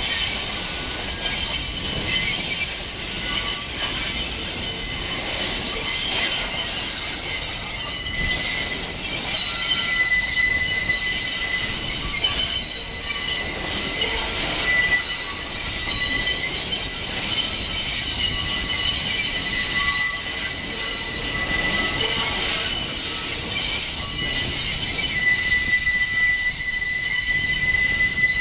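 R68-series New York City subway cars' steel wheels squealing against the rails: a loud, shrill screech of several steady high tones over the rumble of the moving train.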